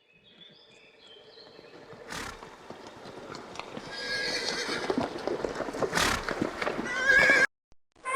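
Horse whinnying over trotting hoofbeats that grow louder, with the loudest whinny near the end.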